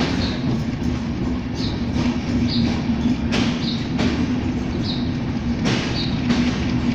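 Bangladesh Railway passenger coaches rolling past a station platform: a steady low rumble and hum from the running train. Wheels clack loudly over rail joints twice, once past the middle and once near the end, with short high squeaks about every second.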